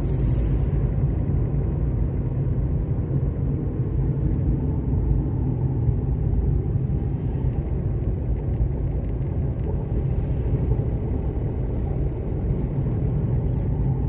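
Steady low rumble of a car, even and unbroken, with no separate knocks or changes.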